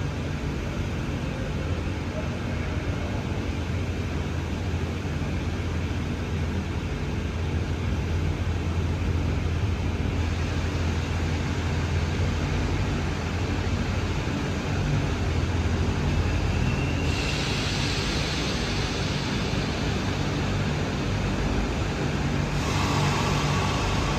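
Train running at the station with a steady low hum that slowly grows louder, joined by a hissing noise for several seconds in the second half.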